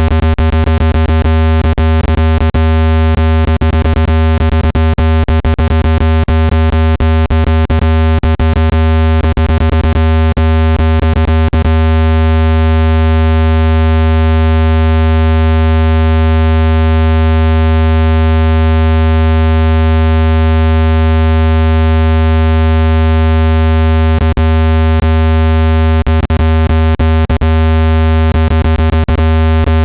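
Loud, steady, low-pitched electronic tone with a stack of overtones, played to vibrate trapped water out of a phone speaker. Rapid sharp clicks cross it through the first dozen seconds and again in the last few seconds.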